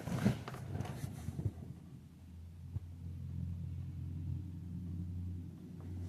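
A car engine running steadily with a low hum, after a few knocks and rustles from handling of the recording device in the first second and a half.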